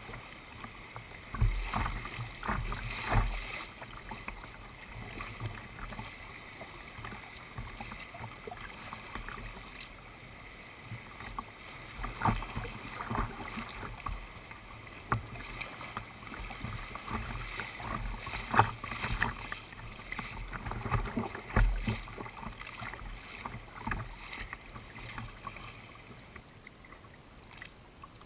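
Kayak paddling: paddle blades dipping and splashing in river water at an irregular pace, with a few louder dull thuds.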